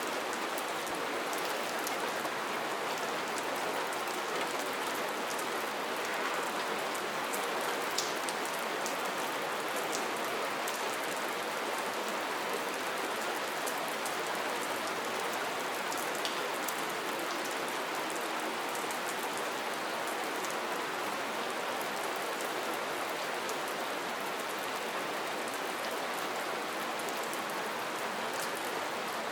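Steady rain falling, an even hiss dotted with many sharp ticks of single drops striking a surface.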